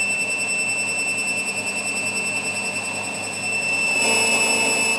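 A steady, high-pitched whine from a workshop machine, one pitch with overtones; a lower hum joins about four seconds in, and it gets a little louder there.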